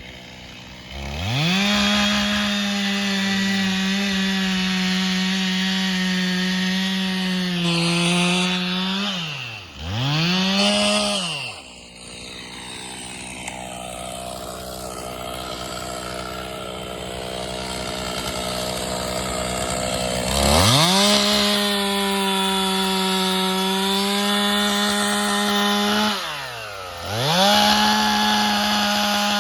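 Two-stroke chainsaw revved to full throttle and held there for several seconds at a time, cutting fallen trees into pieces. The revs drop and pick up again about a third of the way in, ease off for several seconds, then climb back up with another short drop near the end.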